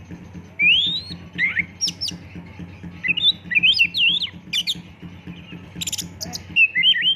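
Oriental magpie-robin (kacer) singing a rapid, varied song of short whistled phrases with rising and falling notes. About six seconds in comes a quick run of sharp clicking notes. A low steady hum runs underneath.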